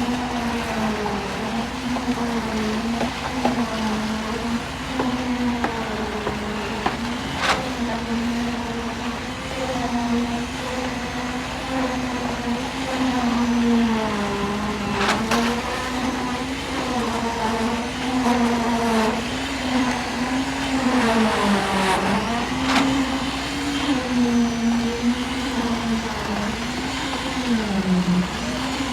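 Motor of concrete-pouring machinery running with a steady hum whose pitch dips and recovers every few seconds. About three sharp knocks sound over it, several seconds apart.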